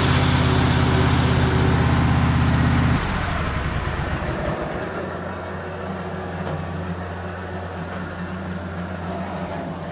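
Sawmill engine running under load as its carbide blade cuts through a spruce log, with a hiss over the engine note. About three seconds in, the engine note suddenly drops lower and quieter, and the sound then slowly fades.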